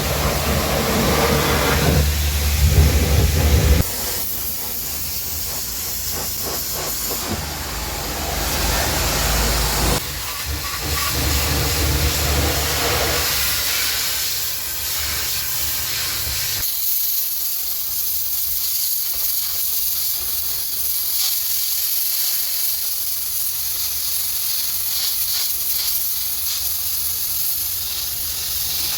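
Pressure washer spraying water onto a car: a steady hiss. A low hum runs underneath for the first half and drops out partway through.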